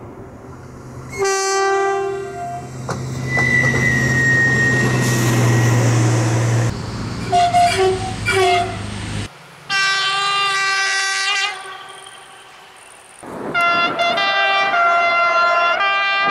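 Series of French locomotive two-tone horns: a blast about a second in, then a run of quick short toots, a longer blast, and near the end the horn sounded back and forth between two pitches like a tune. A low engine rumble and passing-train noise sit under the first half.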